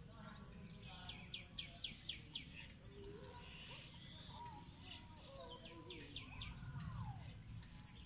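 Small birds chirping: a quick run of about half a dozen short, high chirps about a second in, another run around five to six seconds in, and a few single high chirps, over faint outdoor background noise.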